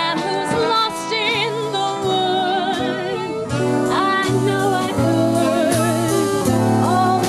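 Swing band music with a woman singing held notes in a wide vibrato over bass and accompanying instruments.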